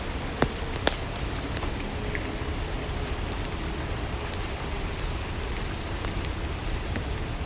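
Steady rainfall, an even hiss with occasional sharp ticks scattered through it.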